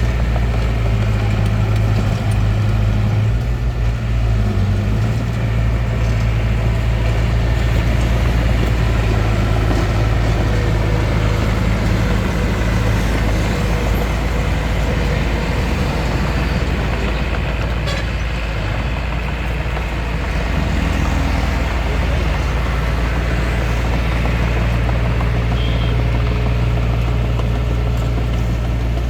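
Bulldozer's diesel engine running steadily, with a deep hum that holds throughout.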